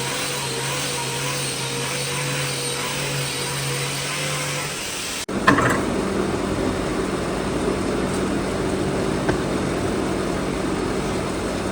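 Steady electric motor hum of a power tool running. A little over five seconds in, the sound cuts abruptly to a different steady hum with more noise.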